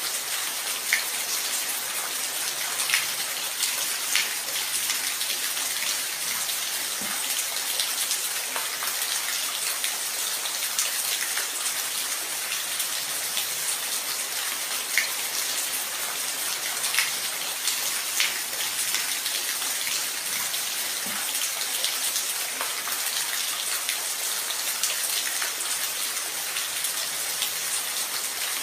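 Steady rain falling, a continuous hiss with scattered sharper drips and taps of single drops.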